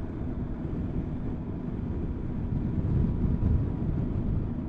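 Motorcycle engine running steadily under way, with wind rush and buffeting on the helmet camera's microphone; the low rumble grows a little louder and gustier about halfway through.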